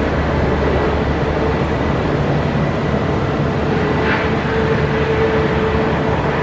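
Jet aircraft engines running with a steady noise and a constant hum, which strengthens slightly midway.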